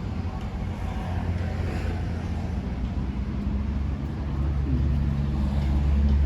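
A large engine running close by: a steady low hum that grows louder over the last couple of seconds.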